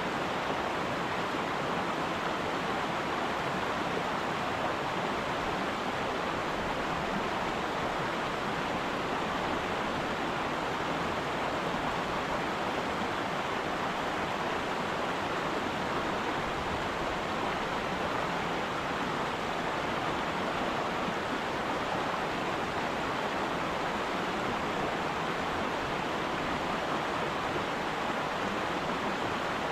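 Steady rushing of a trout stream's flowing water, an even noise with no breaks.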